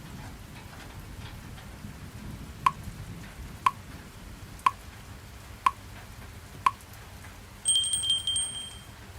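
Timer alarm going off over steady rain noise. Five short ticks come one a second, and then a high electronic beeping lasts about a second near the end.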